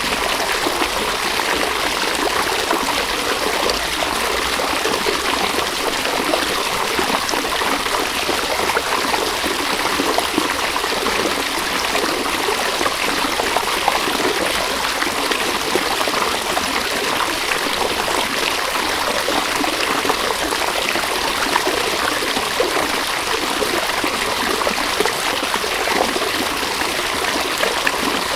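River flowing: a steady, even rush of running water.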